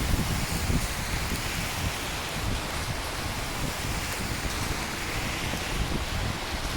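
Steady rain hissing, with a gusty low rumble underneath that is strongest in the first second.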